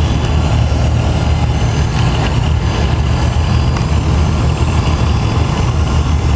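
Old International Harvester Farmall tractor engines running steadily at low speed as the tractors drive slowly past.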